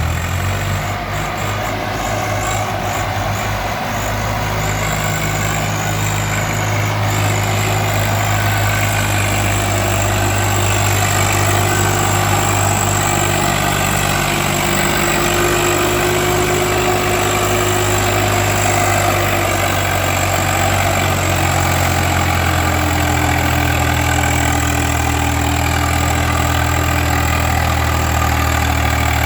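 Swaraj 744 XT tractor's diesel engine running steadily, its pitch rising and falling slightly as the throttle shifts.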